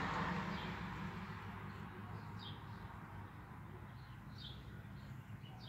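A few faint, short bird chirps, each a quick falling note, about two seconds apart, over a steady low hum.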